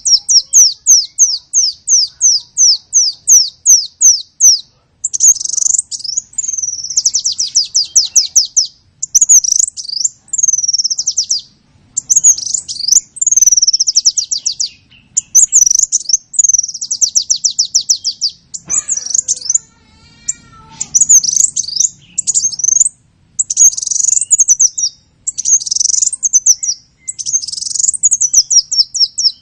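A small songbird singing continuously: rapid runs of high, down-slurred chirps, about four or five a second, and trills in phrases with brief pauses.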